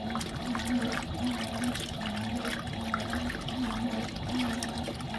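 Fisher & Paykel MW059 top-loading washing machine washing a load, water sloshing in the tub over a steady motor hum that swells and dips in quick, regular pulses.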